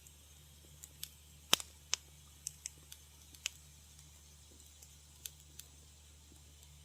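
Wood fire crackling: scattered sharp pops and snaps, bunched in the first half with the loudest about a second and a half in, over a faint steady low hum.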